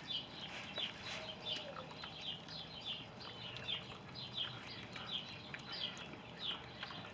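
Birds chirping: a quick run of short, high, downward-sliding chirps, several a second, without a break.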